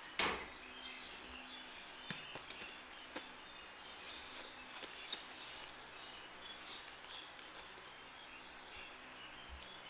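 Birds chirping steadily in the background, with a sharp knock just after the start and a few softer taps later on.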